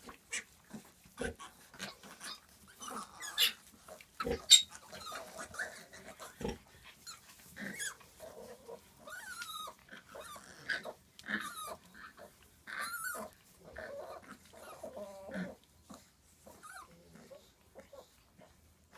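A litter of newborn piglets squealing and squeaking in many short calls, some sliding up or down in pitch, with a few sharp knocks mixed in.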